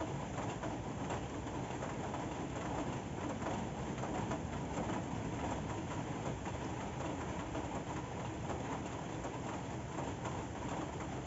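Steady rain falling: an even hiss with faint ticks of drops.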